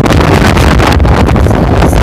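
Loud wind buffeting on the microphone over the low rumble of an off-road vehicle on the move.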